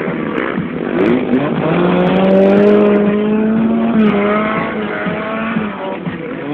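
Motocross bike engine revving: a couple of quick rising blips, then a long pull held at high revs and climbing slowly for about four seconds before it eases off near the end.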